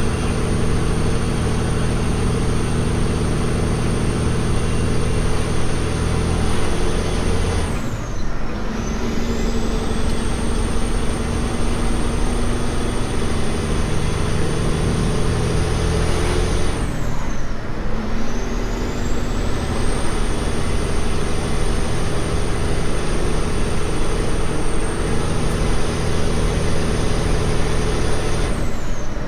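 Semi truck's diesel engine pulling under load, with a high whine over it. Twice, about a third and two thirds of the way through, and again near the end, the engine note and whine drop away briefly and then climb back, as at a gear change.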